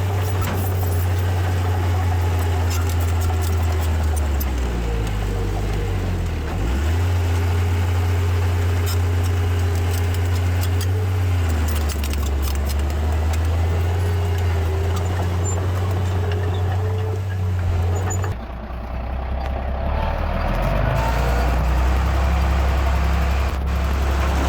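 Heavy diesel engine of earthmoving machinery running under changing load, its pitch dropping and rising a few times, with scattered metallic clicks and clanks. The sound changes abruptly about three quarters of the way through.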